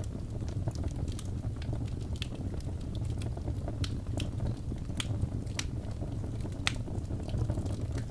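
Fireplace fire crackling: irregular sharp pops and snaps over a steady low rumble of the flames, the loudest pops about five and nearly seven seconds in.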